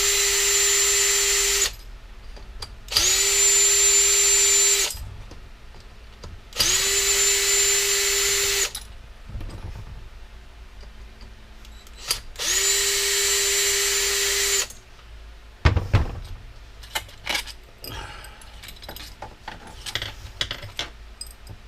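Power drill backing out screws: four separate runs of about two seconds each, the motor whine rising as it spins up, then stopping. In the last several seconds, light knocks and rattles of loose parts being handled.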